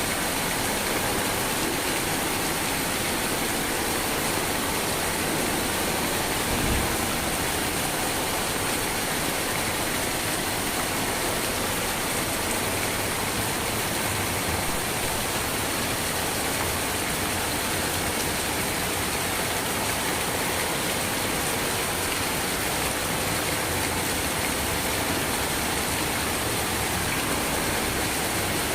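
Steady rainfall, an even unbroken hiss, with one brief low thump about seven seconds in.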